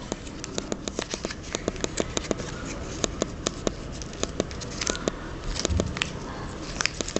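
Sheet of origami paper crackling and rustling as it is folded and creased by hand, in many small irregular clicks.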